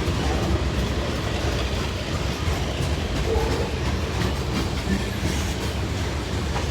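Long CSX freight train of tank cars rolling slowly past, with a steady rumble of its wheels on the rails.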